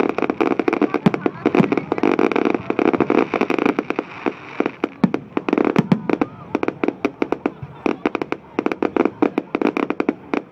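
Fireworks display: rapid volleys of bangs and crackling shells going off. The bangs come thick and fast for about the first six seconds, then thin out to scattered reports.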